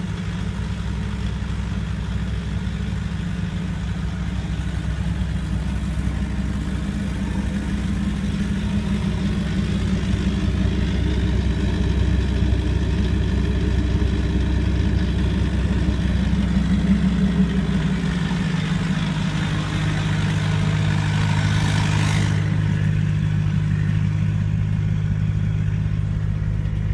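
1991 Volkswagen Jetta four-cylinder turbodiesel idling steadily with diesel clatter, still warming up after a cold start. Its note shifts lower about two-thirds of the way through, and a brief hiss comes a few seconds later.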